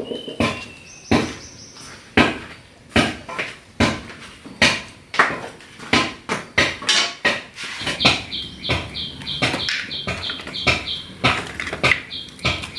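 Irregular sharp knocks and clacks of hard objects, roughly one or two a second. From about eight seconds in, a bird's high chirp repeats rapidly over them.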